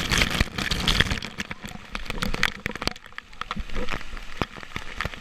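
Waterfall water splashing and running close to the microphone, with many sharp crackles and pops, loudest in the first couple of seconds and easing briefly about three seconds in.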